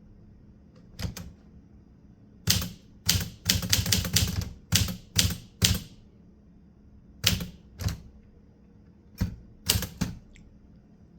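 Manual typewriter keys striking in short irregular runs: one key about a second in, a quick burst of a dozen or so strikes, then a few scattered pairs of strikes with pauses between.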